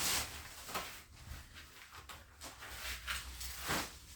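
Marmot waterproof rain pants rustling and swishing as they are pulled on, in several short brushing bursts of nylon fabric.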